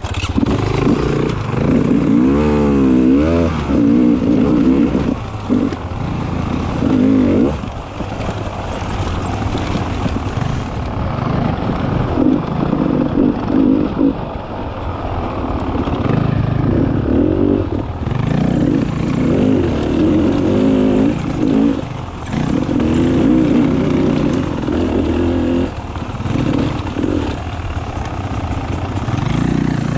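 Beta 300 RR two-stroke enduro motorcycle engine under way on a trail, loud, its pitch rising and falling over and over with the throttle.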